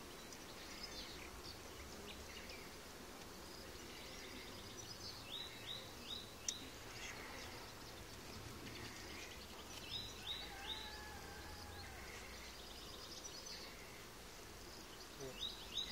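A bird calling in the background: short falling chirps in groups of three, repeated about every five seconds, over a faint low steady hum. There is one sharp click about six and a half seconds in.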